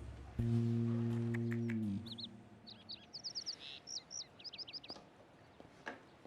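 Held low musical notes that stop about two seconds in, followed by small birds chirping in quick runs of high tweets.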